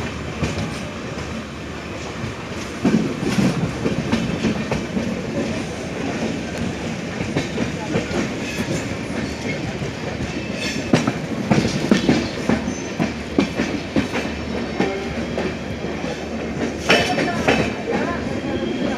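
A passenger train running along the track, its steel wheels clattering over rail joints with irregular sharp clicks over a steady rumble.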